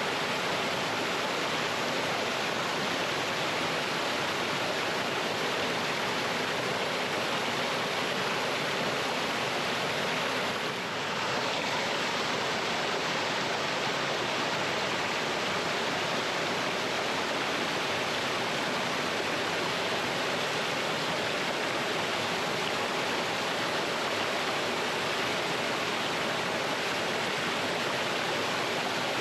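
Mountain stream water rushing steadily over rocks in a small waterfall, an even, unbroken rush, dipping slightly for a moment about eleven seconds in.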